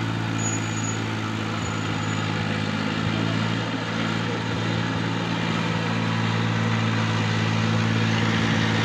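Heavy diesel engine running steadily at an even, unchanging speed, with no revving.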